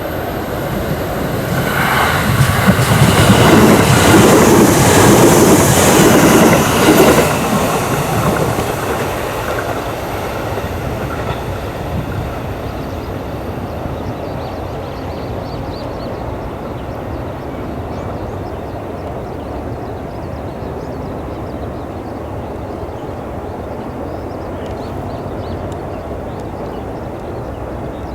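JR electric commuter train passing close by on the Hachiko Line, loudest for a few seconds about 3 to 7 seconds in, then fading into a steady lower rumble as it moves away.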